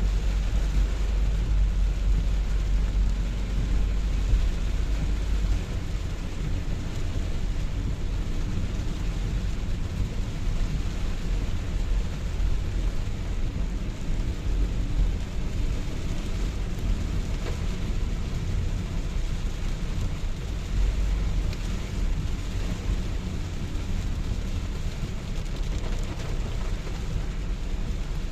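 Steady rainfall, an even hiss of falling rain over a deep low rumble that is strongest for the first several seconds.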